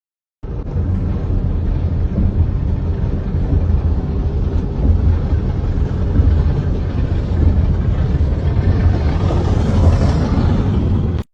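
Steady low rumble of a moving car's road and engine noise, with a hiss that swells near the end. It starts and cuts off suddenly.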